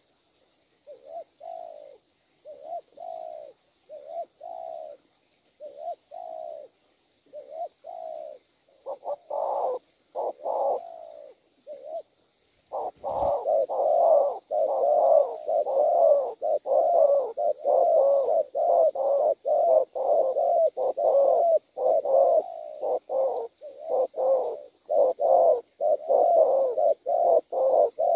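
Wild-caught spotted dove cooing: short spaced coo phrases at first, then about halfway through a louder, fast run of coos with hardly a break. A single sharp click comes just as the loud cooing begins.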